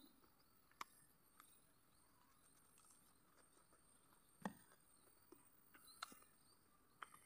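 Near silence with faint eating sounds: a few soft clicks and smacks of a person chewing chicken eaten by hand, the clearest about halfway through and another shortly after, over a faint steady high hiss.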